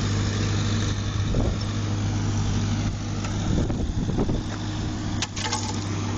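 Caterpillar heavy machine's diesel engine running steadily under work while pulling beams, with a few sharp knocks a little after five seconds in.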